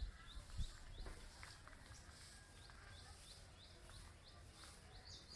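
A small bird chirping over and over, faint, with short high notes about two or three a second that pause for a while in the middle.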